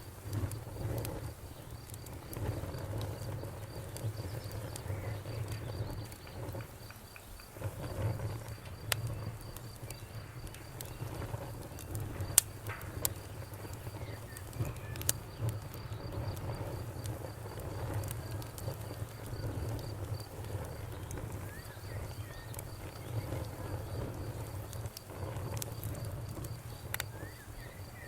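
Bonfire crackling, with sharp pops scattered over a low steady rumble of the flames. A cricket chirps in a fast, even high-pitched pulse throughout, breaking off briefly about three quarters of the way through.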